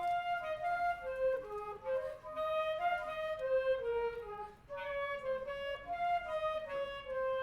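A wind band playing a fast passage of many quick notes, with flute and clarinet lines on top.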